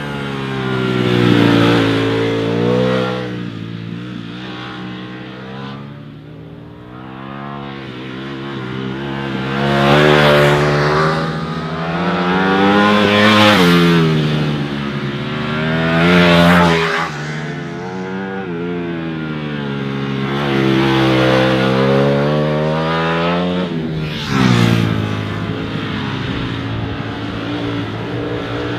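Ducati Panigale V4 superbike's V4 engine revving up and down again and again, its pitch rising and falling about six times, each peak loud.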